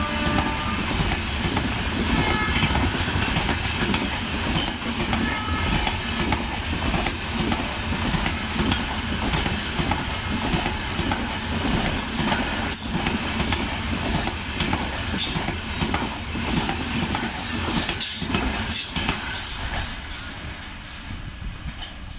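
Coaches of an express passenger train running through at speed: a steady rumble of wheels on rail, with sharp clatter over the rail joints in the second half. The sound fades near the end as the last coach goes away.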